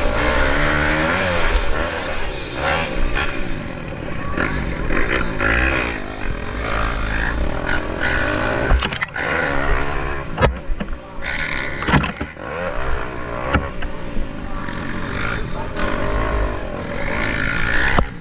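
Several pit bike engines revving up and down as the bikes race, their pitch rising and falling, with a few sharp knocks.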